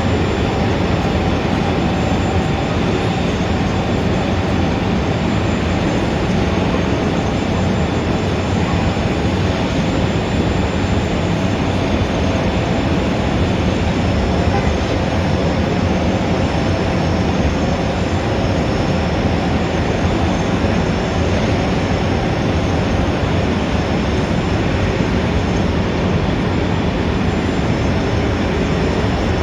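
Steady city traffic ambience: a dense, continuous rumble and hum of street traffic with no single event standing out.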